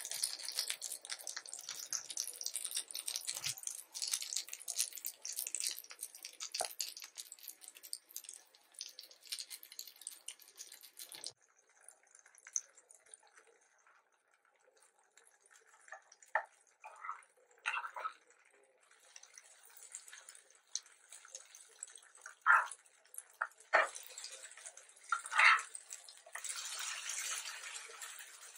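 Enoki mushroom pancakes sizzling and crackling in hot oil in a frying pan. After about eleven seconds the sizzle drops away for a while, and a slotted spatula scrapes against the pan several times as the pancakes are worked loose and turned. The loudest scrapes come about two-thirds of the way through, and the sizzling picks up again near the end.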